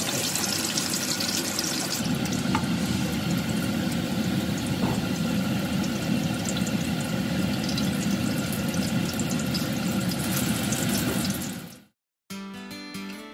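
Ground-pork torta frying in shallow oil in a pan, a steady sizzle with small crackles. The sizzle fades out near the end and acoustic guitar music starts.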